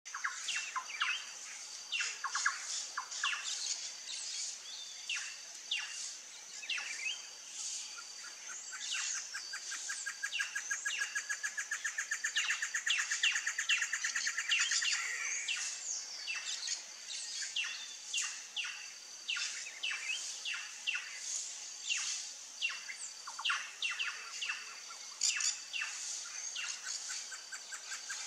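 Many wild birds calling at once: short chirps and sweeping whistled notes overlapping without pause, over a steady high-pitched whine. A fast rattling trill runs for several seconds from about nine seconds in.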